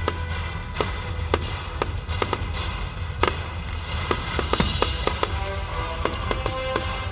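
Fireworks going off in an irregular run of sharp bangs and pops, several a second at times, over music with held tones.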